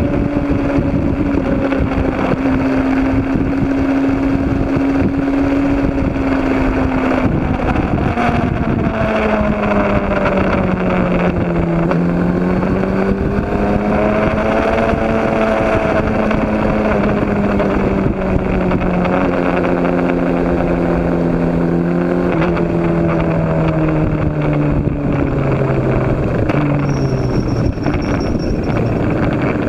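Racing motorcycle engine running continuously, its pitch slowly falling, rising and falling again as revs change, over a heavy rushing noise. A faint high-pitched whine joins near the end.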